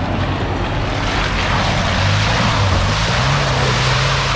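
Off-road 4WD engine running under load, its note rising about two seconds in, beneath a steady rushing noise.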